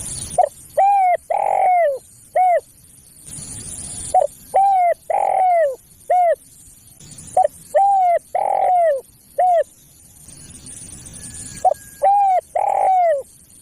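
Spotted dove (tekukur) cooing, a lure-call recording: four repeated phrases, each a short note, a longer coo, a drawn-out loudest coo and a short closing note. A faint hiss sits in the gaps between some phrases.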